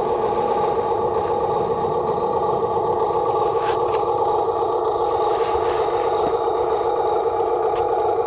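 Huina 1573 RC dump truck's electric motor and gearbox running with a steady, unchanging whine, with a few light clicks over it.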